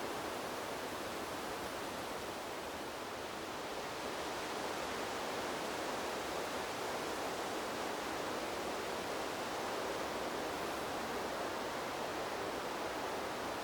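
Wind blowing through a bamboo grove: a steady rushing hiss of moving air and leaves that swells slightly about five seconds in.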